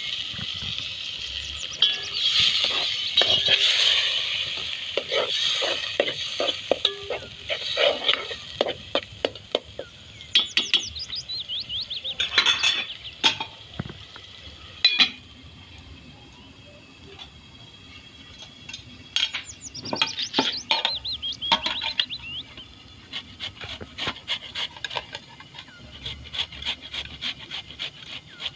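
Cooking utensils clinking, knocking and scraping against a pot, in quick runs of sharp knocks with short pauses between them.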